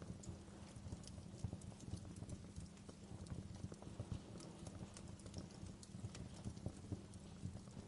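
Wood fire burning in a fireplace, with scattered sharp crackles and pops at irregular intervals over a low, steady rumble.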